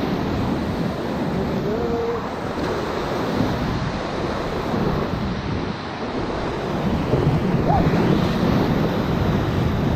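Whitewater of the Ocoee River rushing steadily through a rapid, with wind buffeting the microphone; a little louder from about seven seconds in.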